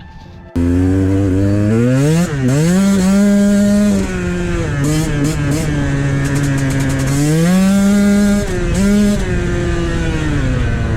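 Dirt bike engine running hard, starting suddenly about half a second in, its pitch climbing, holding and dropping back several times with the throttle.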